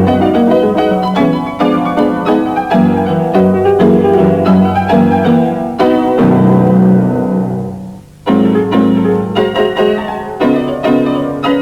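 Solo piano music with a brisk run of notes; about six seconds in a chord is held and dies away, and the playing picks up again a little after eight seconds.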